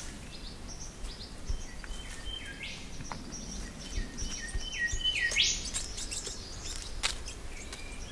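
Rainforest birds calling: several short whistled notes and two loud, sharp upward-sweeping calls, one about three seconds in and one about five and a half seconds in.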